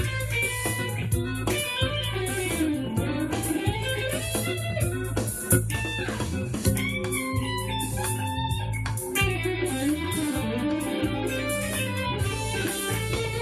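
Electric guitar played through the Zoom G3X multi-effects pedal's MS Crunch amp model: crunchy lead lines with string bends, over steady low bass notes.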